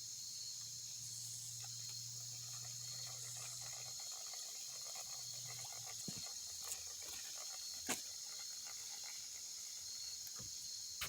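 Steady high-pitched chorus of insects, with a faint low hum for the first five seconds or so and a few light clicks.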